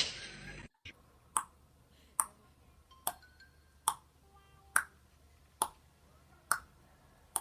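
A loud thump at the very start, then sharp clicks repeating at an even pace, a little more than one a second, with faint short tones between them.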